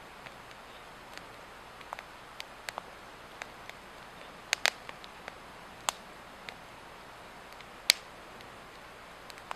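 Swedish torch log fire burning, crackling with irregular sharp pops over a steady hiss, the loudest pop near the end.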